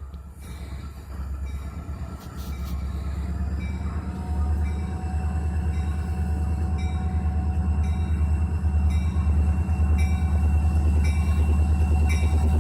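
Diesel freight locomotives and train running past, a heavy low rumble that grows louder about four seconds in and stays strong.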